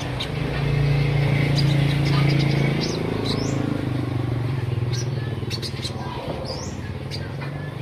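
Olive-backed sunbird (kolibri ninja) giving short, high chirps and quick rising notes, over the steady low hum of a vehicle engine that is loudest during the first three seconds and then fades.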